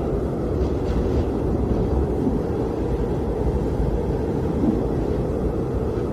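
Blizzard wind blowing steadily, a deep low rumble with a faint whistling tone shifting above it.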